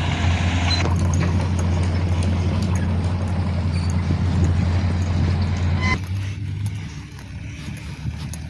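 Diesel engine of a Mitsubishi Canter HDX dump truck running with a steady low drone, which drops sharply about six seconds in to a quieter, rougher running sound.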